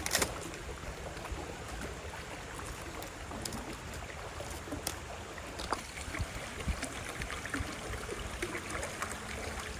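Campfire crackling, with scattered sharp pops at irregular intervals, over the steady wash of a slow-moving river.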